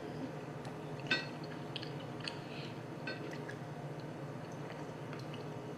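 Close-up chewing of fried pork dumplings: soft wet mouth clicks and smacks scattered through, the sharpest about a second in, over a low steady hum.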